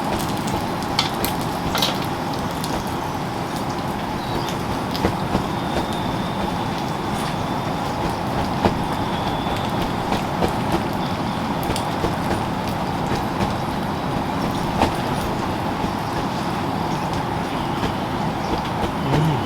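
Steady rain falling, with louder single drops striking now and then.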